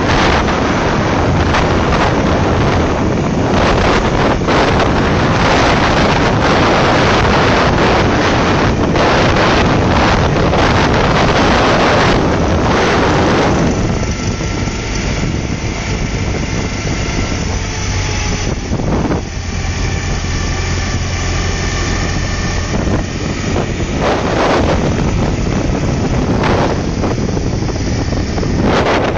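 Wind buffeting the microphone over a BMW motorcycle engine running, heard from the sidecar on the move. About halfway through the wind noise drops and the engine's steady drone comes through more clearly, then the wind rises again near the end.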